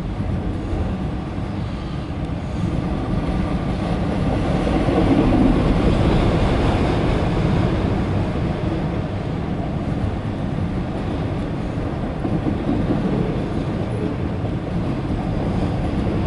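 Freight train of empty autorack cars rolling past at close range, a steady rumble and rattle of wheels on rail that swells a little about a third of the way in.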